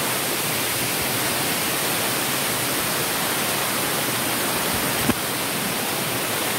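Waterfall rushing as a steady, even noise, with a single brief knock about five seconds in.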